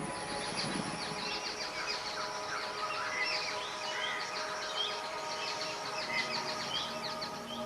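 Songbirds chirping and calling, a dense run of short high chirps and whistles.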